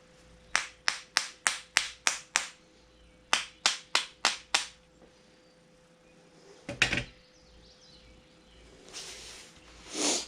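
Hammer strikes on a driveline U-joint being assembled: a run of seven quick taps at about three a second, then five more, then a single heavier knock. A short scraping noise follows near the end.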